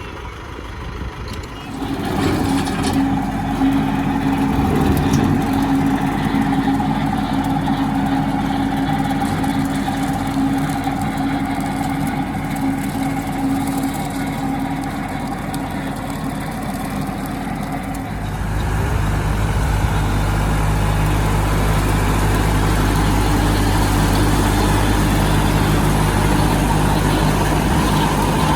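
Tractor engine running steadily. It grows louder about two seconds in, and about 18 seconds in its note drops to a deeper, louder sound.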